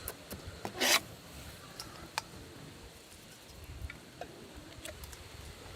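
Food preparation sounds: a short rasping scrape about a second in, then sparse light clicks and taps of kitchen utensils.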